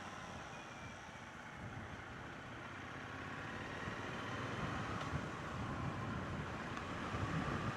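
Triumph Bonneville T120's 1200 cc parallel-twin engine running at low speed with wind noise over it, growing steadily louder from about halfway through as the bike picks up speed.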